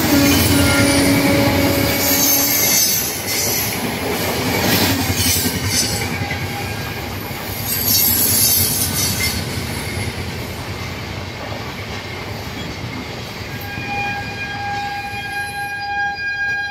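Passenger train of red LHB coaches rolling past, its wheels rumbling and clattering over the rail joints and slowly fading as the last coaches go by. A steady horn sounds for the first two or three seconds, and a different steady high tone comes in near the end.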